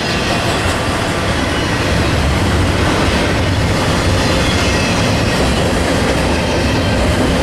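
Freight train cars rolling past at close range: a steady rumble and rattle of steel wheels on the rails.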